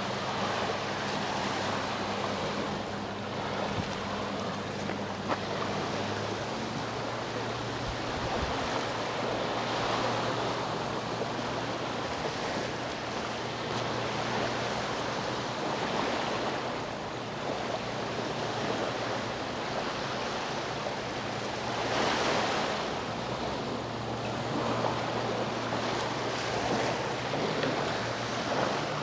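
Sea waves washing onto the shore in repeated swells, the biggest about three-quarters of the way through. Beneath them runs a steady low engine hum, a boat's, which shifts a little in pitch a few seconds in.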